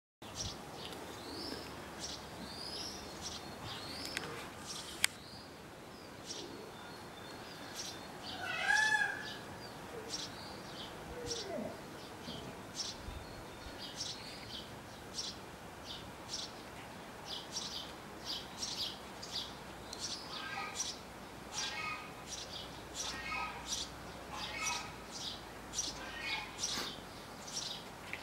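Small birds chirping: short high chirps repeating about once a second, with a louder call that rises and falls in pitch about nine seconds in.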